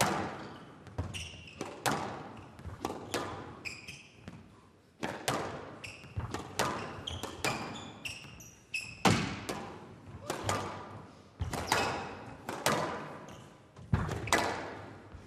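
Squash rally: the ball struck hard by rackets and smacking off the front and side walls, a steady run of sharp hits about one or two a second, each with a short ringing tail.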